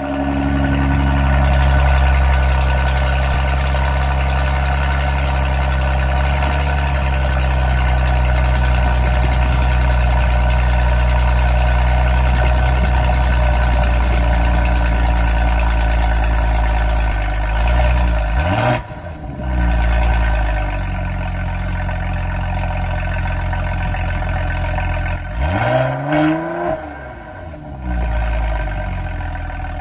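Mercedes-Benz GLE 450 coupe's 3.0-litre twin-turbo V6, heard at the exhaust tips, running at a high cold-start idle that eases slightly lower. It is revved briefly twice, about two-thirds of the way through and again near the end, the pitch rising and falling back each time.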